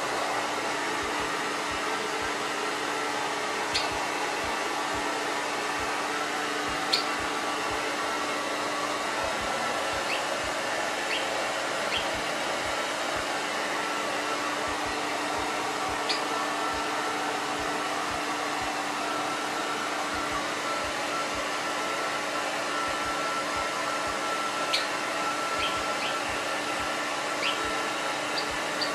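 Hair dryer running steadily, with a constant hum under its airflow noise. A Java sparrow gives short, sharp chirps every few seconds over it, excited by the dryer's sound.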